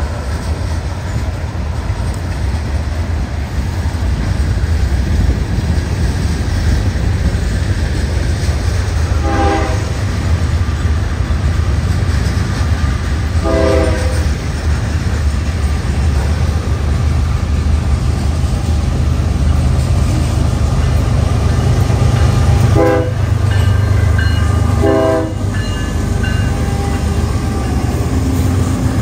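BNSF diesel freight locomotives rumbling steadily as they approach and pass. The air horn sounds four short blasts: two about four seconds apart near the middle, and two more about two seconds apart later on.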